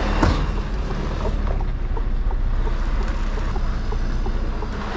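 Mercedes-Benz Actros truck's diesel engine running, heard from inside the cab as a steady low drone, with a brief knock just after the start.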